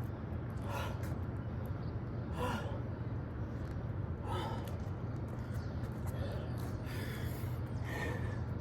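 A man's short, forceful breaths, about one every one and a half to two seconds, as he exerts himself during exercise, over a steady low hum.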